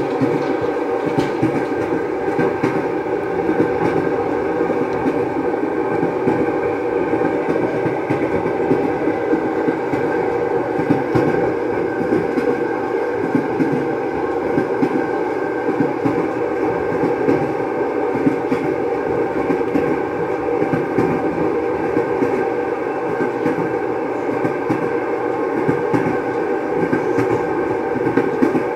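Passenger train running, heard from inside the carriage: a steady rumble of wheels on track with a constant humming drone.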